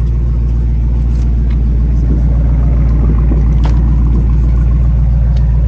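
2020 Dodge Charger Scat Pack's 392 (6.4-litre) HEMI V8 idling with a steady, deep rumble.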